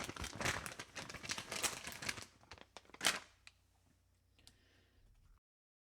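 Dense rustling, crackling noise for about two seconds, then a single sharp crackle about three seconds in, after which it turns faint and cuts off suddenly near the end.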